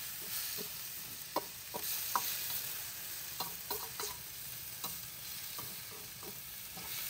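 Kasam ikan (rice-fermented fish) frying with lemongrass and ginger in hot oil in a wok, sizzling steadily. A utensil stirring it gives scattered short clicks and scrapes against the pan.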